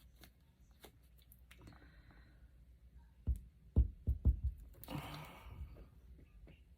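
Quiet handling noise at a craft table: faint clicks, then a quick run of four or five low thumps a little past three seconds in. About five seconds in comes a breathy sigh.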